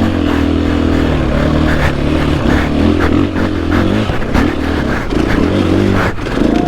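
Dirt bike engine running hard under throttle, its pitch holding fairly steady with small rises and dips, over a loud rushing hiss.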